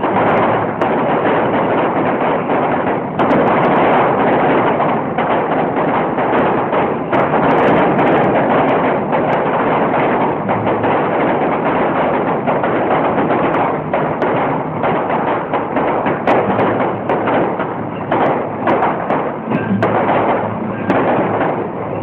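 Fireworks barrage: a dense, unbroken rattle of many rapid bangs and thumps from bursting shells and fountains.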